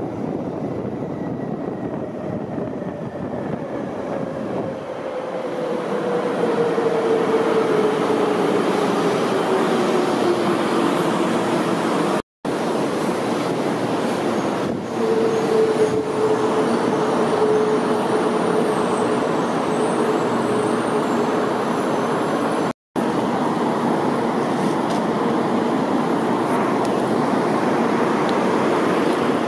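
Taiwan High Speed Rail train pulling into an underground platform: its rushing noise grows louder, and a whine falls in pitch as the train slows. Later there is a steadier whine while the train stands at the platform.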